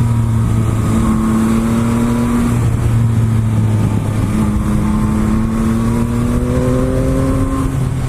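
Aprilia Tuono V4 Factory's 1100 cc V4 engine under way, held at a steady pitch with a few brief dips. In the second half it pulls up gradually in revs.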